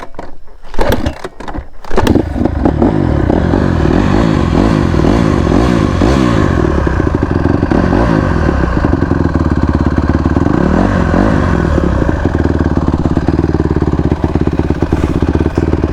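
Dirt bike engine running loud, its pitch rising and falling as the throttle is blipped, coming in about two seconds in after a few clattering knocks.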